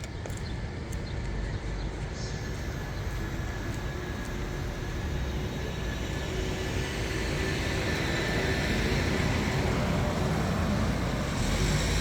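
Steady vehicle driving noise, a low road and engine rumble that slowly grows louder.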